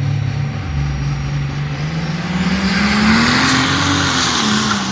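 Diesel drag-racing pickup trucks, one of them a triple-turbocharged second-generation Cummins, launching off the line at full throttle. The engine note holds steady, then climbs for about two seconds with a rising hiss before easing back and levelling off.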